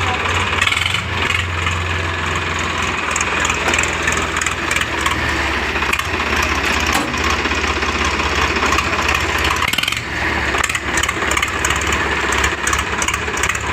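Tractor diesel engine running steadily, with a constant low hum and a dense mechanical clatter over it.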